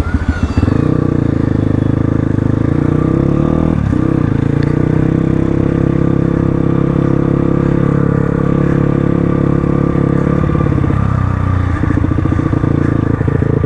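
Crossfire RM250 dirt bike's 250 cc engine running steadily while riding, with a brief dip in the note about four seconds in. About eleven seconds in the engine note drops to a lower, steady pitch as the rider eases off.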